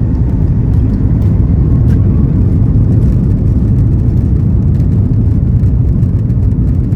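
Cabin noise of a Lufthansa Airbus A340-600: a loud, steady low rumble of the engines and airframe heard from a passenger seat.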